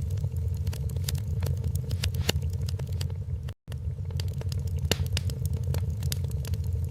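Wood fire crackling in a fireplace: irregular sharp pops and snaps over a steady low roar. The sound cuts out for an instant about halfway through.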